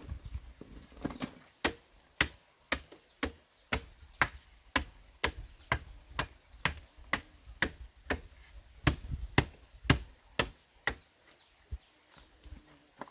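Steady blows of a hand tool striking bamboo, about two a second, some twenty sharp knocks in a row that stop a couple of seconds before the end.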